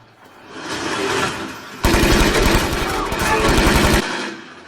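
Rapid automatic gunfire from a TV drama's soundtrack: a dense, loud burst of shots lasting about two seconds that cuts off suddenly, after a build-up of noise.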